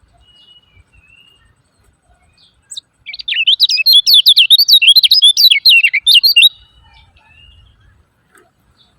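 Kecial kuning, a white-eye, giving a loud, fast run of chattering 'ciak ciak' notes that starts about three seconds in and lasts about three and a half seconds, with a few faint single chirps before and after.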